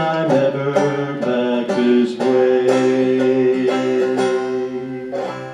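Banjo picked two-finger style, playing the closing bars of a folk song as a run of plucked notes. A last stroke near the end rings out and fades.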